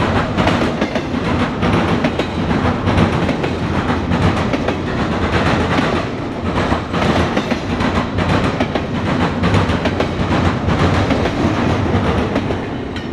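Norfolk Southern double-stack intermodal train rolling past close by: a steady rumble of steel wheels on rail with rapid, irregular clickety-clack from the well cars' wheels crossing rail joints.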